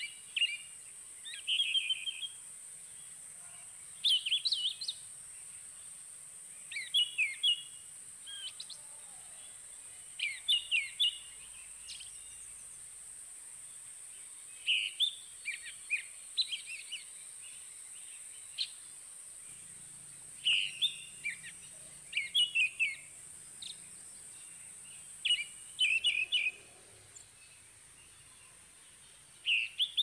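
A songbird singing short, quick phrases of sharply falling whistled notes, repeated about every two to three seconds, over a steady high-pitched hiss.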